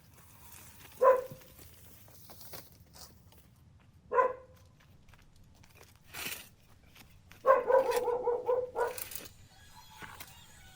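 A dog barking: single sharp barks about a second in and about four seconds in, then a quick run of barks near the end, with a few short hissy noises between them.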